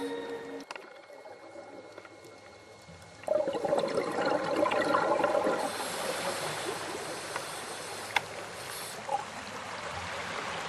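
Sea water washing in, starting suddenly about three seconds in after a quieter stretch and continuing as a steady rush. Music cuts off in the first second.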